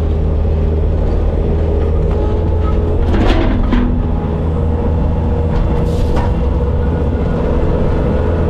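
Bobcat skid steer's diesel engine running steadily under the operator, with a steady mechanical whine over it. Two short clanks come about three and six seconds in.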